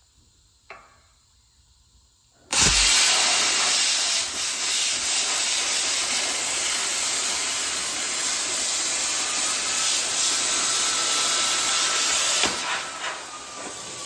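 Plasma cutter cutting steel plate: after a small click, the arc strikes about two and a half seconds in with a thump and a loud steady hiss that holds for about ten seconds and stops near the end. It is cutting cleanly, "like butter", on new tips.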